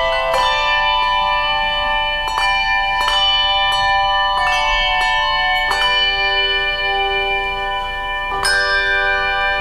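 A handbell choir playing: bells struck in chords and single notes about once a second, each left ringing on under the next, with a fuller chord struck near the end.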